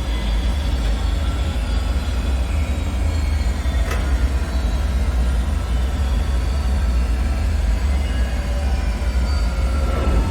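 Dark ambient drone: a steady, deep rumble with faint, slowly drifting whining tones above it, and a single short click about four seconds in.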